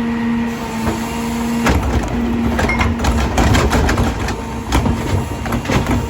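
Diesel garbage truck running with a steady hum, then from about two seconds in a dense run of clattering, knocking and crunching as recyclables are tipped and compacted in the Heil DuraPack rear loader's hopper.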